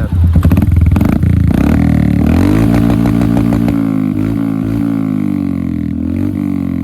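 Royal Enfield Hunter 350's single-cylinder engine through an HK aftermarket exhaust with the dB killer removed. It is blipped loud and choppy for about two seconds, then drops back to a steady, lumpy idle.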